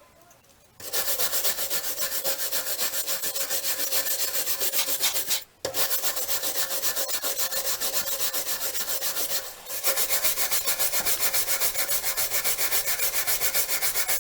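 Fast, even back-and-forth rasping strokes of hand abrasion on the metal of an old monkey wrench, about six strokes a second, with a faint ringing from the metal. It starts about a second in, breaks off briefly midway, then resumes.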